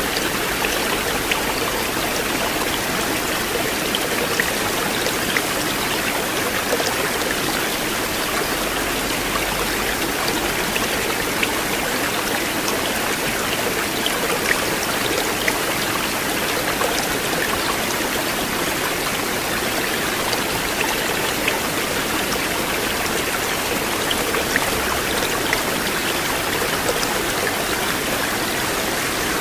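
River water flowing in a steady, continuous rush, with small splashes ticking through it.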